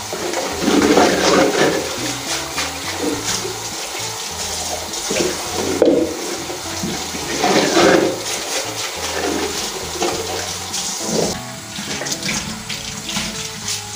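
Water running from a tap and splashing in a sink, surging louder a few times as things are rinsed under it.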